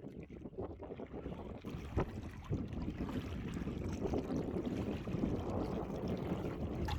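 Steady wind noise on the microphone mixed with the rush of water around a small boat, strongest in the low range, with a brief knock about two seconds in.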